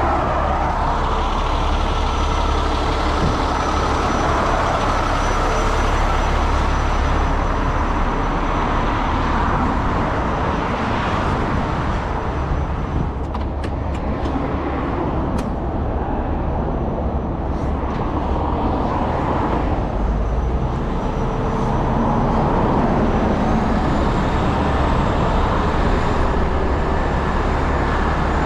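Heavy tow truck's diesel engine running steadily, with a few sharp clicks about halfway through.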